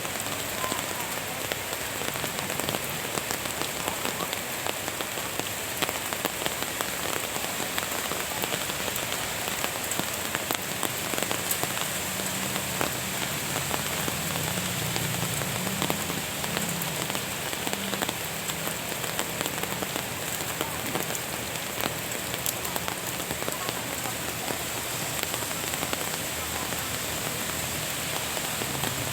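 Steady rain falling in a garden, with many individual drops tapping close by.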